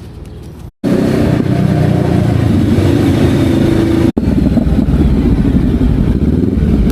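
Motorcycle engine running loud under throttle. The sound cuts out briefly just under a second in and again for an instant at about four seconds.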